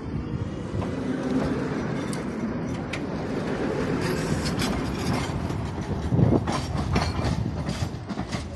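Tatra T6B5SU tram running along the track, a steady rumble with repeated clicks and knocks from the wheels on the rails in the second half.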